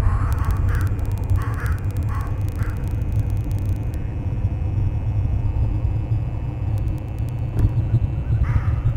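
Crows cawing, a quick series of harsh caws in the first few seconds and a couple more near the end, over a steady low rumble.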